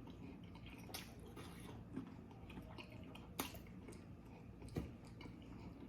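Faint chewing of a mouthful of pizza roll casserole, broken by about four brief soft clicks.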